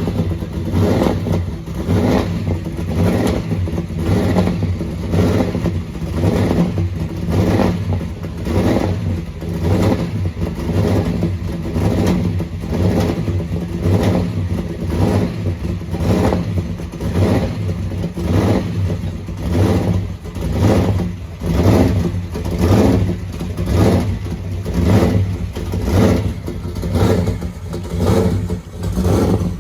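Muscle car engine running at idle with a steady, even lope, pulsing a little more than once a second.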